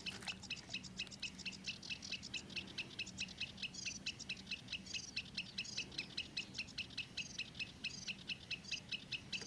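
Spinning reel cranked steadily on a lure retrieve, its handle ticking about five to six times a second. Birds chirp now and then.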